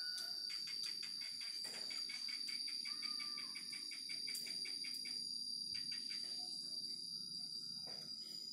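Insects droning steadily on one high pitch, with a quick run of evenly spaced chirps during the first few seconds and a few scattered clicks.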